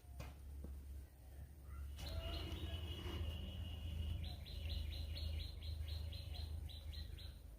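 A bird calling over a steady low rumble: a held high note about two seconds in, then a run of quick repeated notes, about four a second, that stops near the end.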